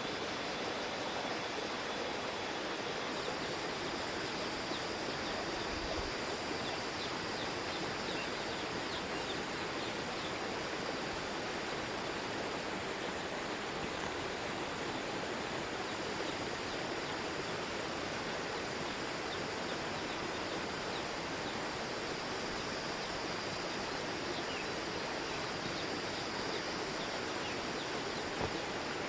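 Steady rushing noise of the kind running water makes, with faint short high chirps scattered through it and one soft knock near the end.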